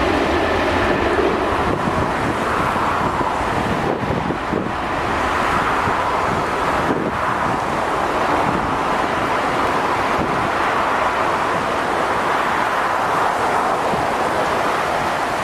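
Jet airliner engines running loud and steady, with a faint steady whine above the rumble, and wind buffeting the microphone.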